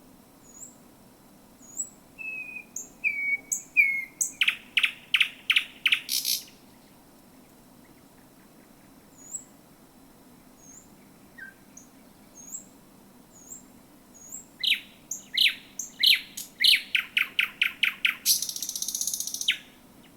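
Thrush nightingale singing close by: two loud phrases of fast, repeated knocking notes, the second ending in a harsh rattle, with thin high notes in the pause between them.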